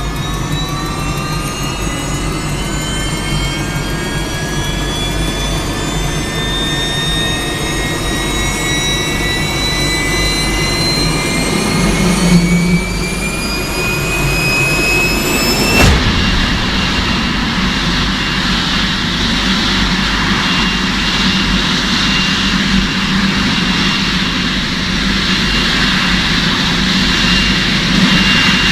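Turbine engine whine rising steadily in pitch as it spools up. About halfway through it changes abruptly to a steady high whine over a loud rushing roar, the engine running at speed.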